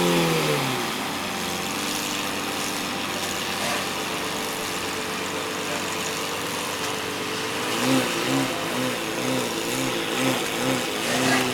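Lamborghini Murcielago V12 at idle. Right at the start it settles from a single rev, then idles steadily. About eight seconds in, a quick run of short throttle blips follows, about two or three a second.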